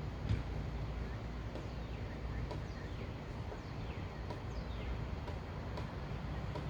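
A bird calling outdoors: short, high notes that slide downward, repeated every half second to a second, over a low rumble of wind on the microphone.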